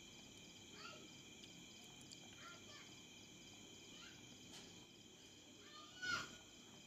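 Near silence with faint steady insect trilling, like crickets, and a few short chirps; the loudest comes about six seconds in.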